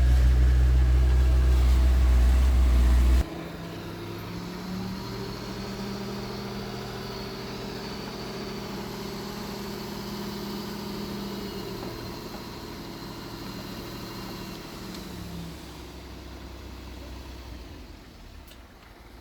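Heavy earthmoving-machine diesel engine running: loud and deep for about three seconds, then dropping suddenly to a quieter, steady engine hum that slowly fades near the end.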